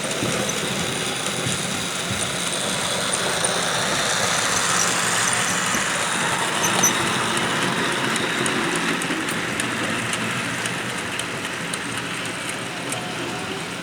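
Model train running on a layout, a steady mechanical running noise with light ticking that swells and then slowly fades as it passes.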